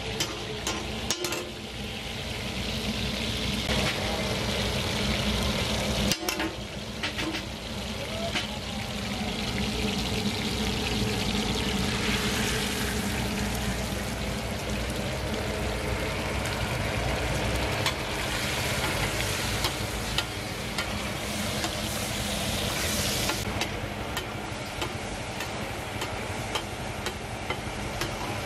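Oil sizzling steadily on a large flat metal tawa as chopped aromatics and then cubes of beef liver fry in it, with a metal spatula scraping and clicking against the griddle now and then.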